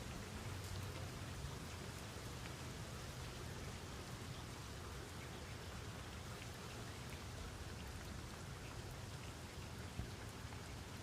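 Steady rain falling, with scattered individual drops ticking on a surface and one slightly louder drop near the end.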